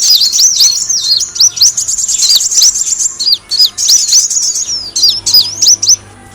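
Kolibri wulung, a sunbird, twittering in a fast, unbroken run of short, high, sharp chirps that swoop up and down. The song breaks off briefly just before the end.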